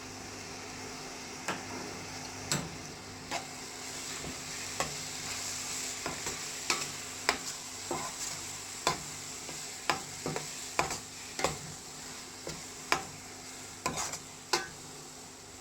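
A spoon stirring a tomato-onion masala frying with spice powders in a pan: a steady sizzle with many irregular sharp taps and scrapes of the spoon against the pan.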